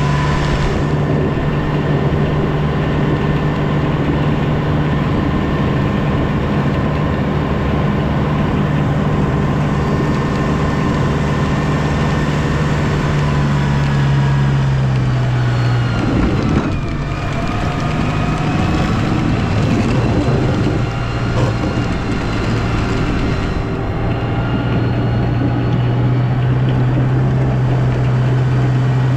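Engine of a snow-plowing vehicle running steadily, with a low drone and higher whines. About halfway through the drone drops away and the pitch shifts, then the drone comes back about eight seconds later.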